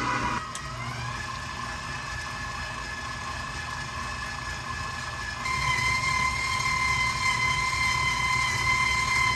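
A small electric motor running with a steady whine over a low hum; the whine shifts to a different, stronger pitch about five and a half seconds in.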